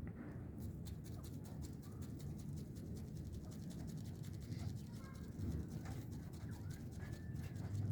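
Grey francolin making a few soft, short chirps in the second half, over a dense run of fast scratchy clicks.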